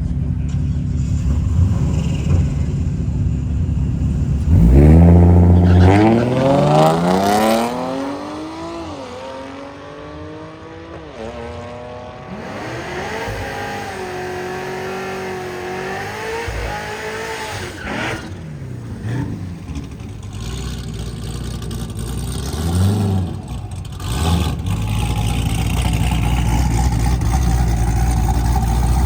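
A car launching down a drag strip. A loud burst about four seconds in is followed by the engine note climbing and dropping back several times as it shifts gears, fading as the car pulls away. Near the end another engine revs briefly, then settles into a low, steady rumble.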